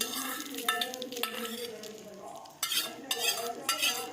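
A spoon stirring curd in a bowl, scraping, with several sharp clinks of the spoon against the bowl.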